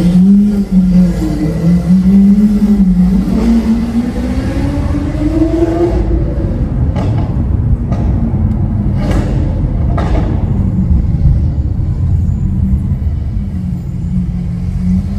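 Lamborghini Aventador SV Roadster's V12 with Capristo exhaust running under load: the engine note rises over several seconds, drops about six seconds in, and a few short sharp cracks follow before it settles into a steady drone.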